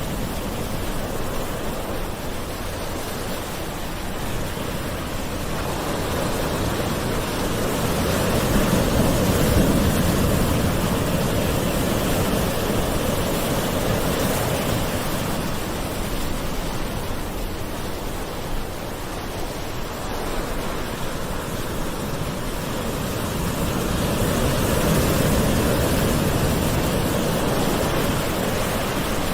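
Gentle ocean waves washing on the shore, a steady rush of surf that swells louder about eight seconds in and again near the end.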